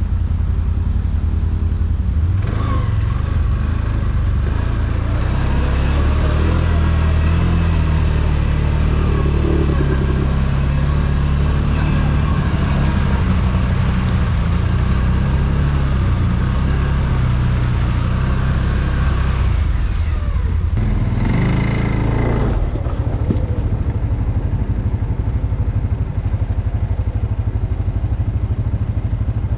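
ATV engine running under way, its pitch rising and falling with the throttle. The sound changes abruptly about 22 seconds in.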